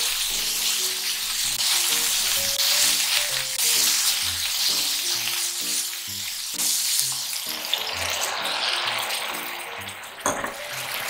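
Pork belly rolls sizzling in hot fat in a frying pan while a paper towel is wiped through the pan to soak up the excess fat. The sizzle eases a little after about seven seconds, and there is a sharp click about ten seconds in.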